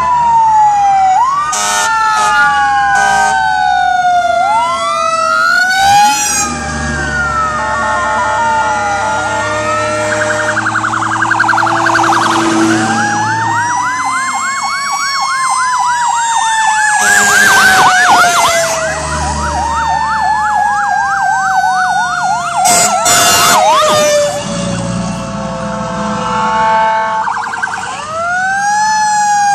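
Several fire truck sirens sounding at once, their wails overlapping as they rise and fall in pitch. In the middle one switches to a fast yelp for several seconds. A few short sharp bursts cut across them.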